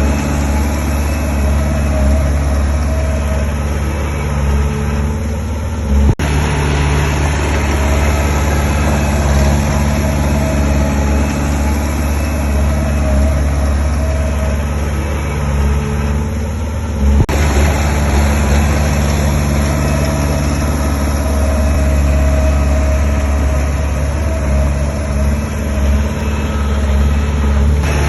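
Diesel engine of heavy construction machinery running steadily at a low, even pitch, with two brief sharp breaks about six and seventeen seconds in.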